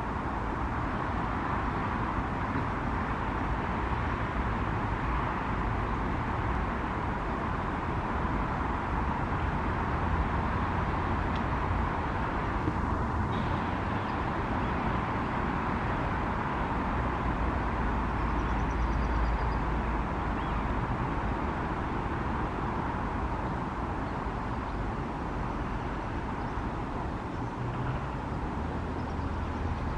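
Steady hum of distant road traffic, with a low rumble that swells now and then.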